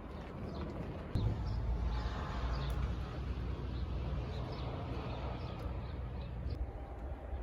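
Small birds chirping now and then over a low, steady rumble that swells about a second in.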